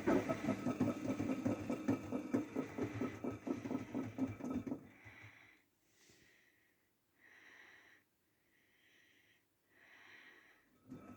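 AEG washing machine running with a rhythmic, pulsing mechanical hum that stops abruptly about five seconds in. After that come only faint, short, hiss-like sounds at intervals of about a second.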